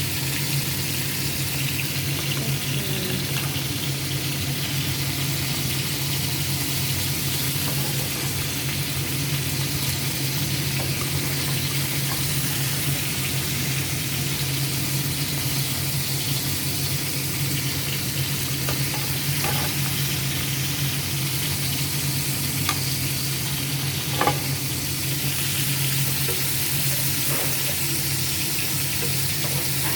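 Chicken frying in a pan: a steady sizzle and crackle of oil, with two light knocks a little past the middle.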